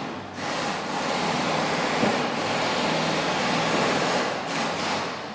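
Pneumatic impact wrench (air gun) running in the workshop: a loud, steady noisy hiss with a short dip just after the start, cutting off shortly before the end.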